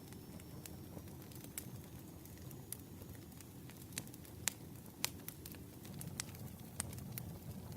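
Wood campfire crackling: irregular sharp pops and snaps over a low steady rumble, with a few louder pops around the middle.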